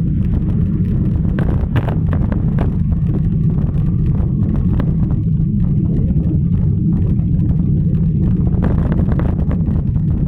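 Steady low wind rumble on the microphone of a camera carried on a moving bicycle, with scattered light clicks and rattles.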